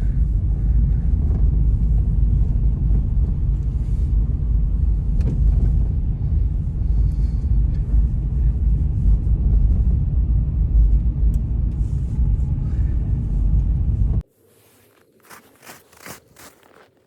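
Heavy blizzard wind rumbling and buffeting the microphone, a dense low roar that cuts off abruptly about fourteen seconds in. A few short, sharp crunches follow near the end.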